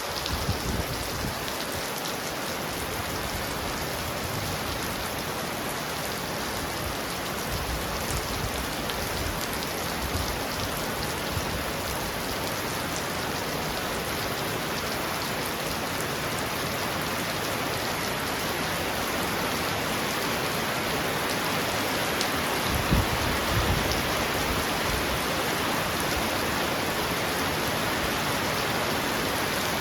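Heavy rain falling steadily on a roof, a dense even hiss. A brief low rumble of thunder comes about two-thirds of the way in.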